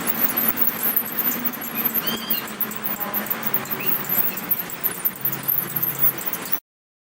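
Monkey calls: a few short, high gliding chirps over a dense, noisy background. The sound cuts off suddenly near the end.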